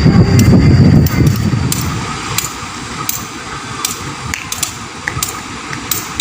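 Passenger train passing through the station. A loud low rumble drops away about a second in, leaving a quieter running noise with scattered sharp clicks as the train moves off.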